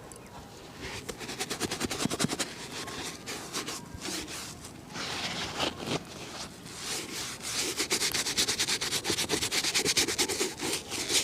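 A shoe being rubbed in quick back-and-forth polishing or buffing strokes during a shoe shine. The strokes come faster and louder in the second half.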